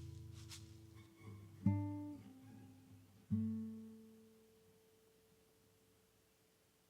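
Guitar playing the last notes of a piece: a chord dies away, then two single plucked notes or chords, about a second and a half apart, ring out and fade to silence.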